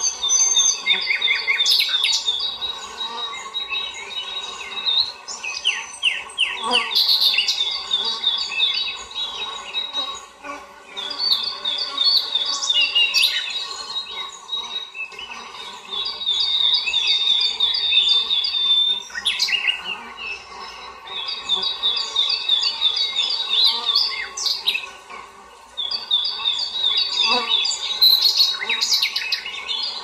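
Birdsong: a trill of rapid, evenly spaced notes at one high pitch, two to three seconds long and repeated about every five seconds, with other birds giving short calls in between.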